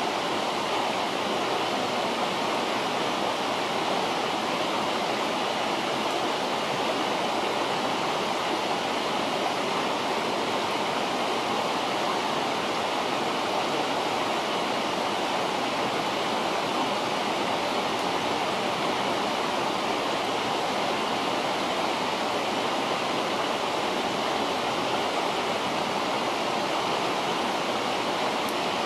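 River water rushing, a steady, even wash with no break.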